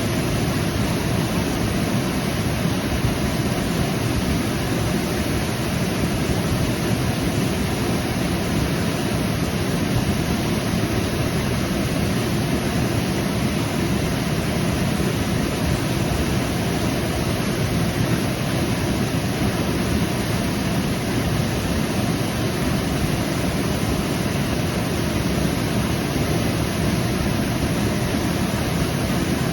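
Waterfall pouring steadily: a constant rushing roar of falling water, heaviest in the low end, with no breaks or changes.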